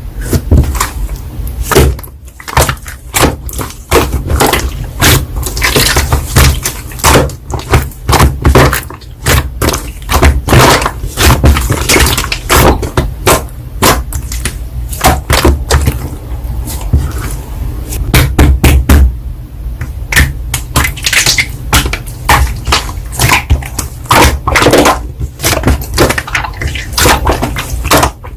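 Slime being squeezed, pressed and stretched by hand, giving a dense, irregular crackling and popping throughout.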